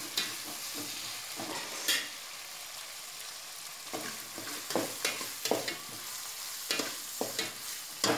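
Onions and freshly added tomatoes sizzling in oil in an aluminium pot, with a steady hiss, while a metal spatula is stirred through them, scraping and knocking against the pot at irregular intervals.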